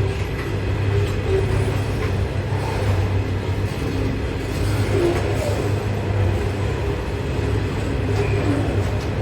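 Sydney suburban electric train at the station, a steady rumble with a constant low hum.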